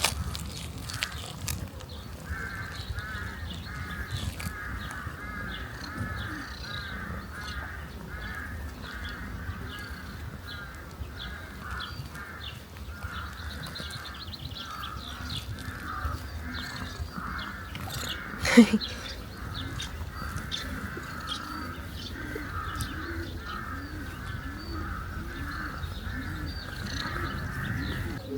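Birds calling in a steady run of short, rapidly repeated calls, with one sudden louder sound about two thirds of the way through, over a low background rumble.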